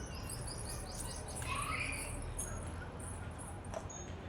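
Small birds chirping: a quick run of short high chirps in the first second, then a few scattered calls.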